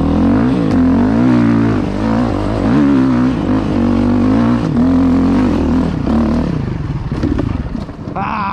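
Dirt bike engine revving up and down repeatedly, then dying away about two-thirds of the way through as the bike stalls.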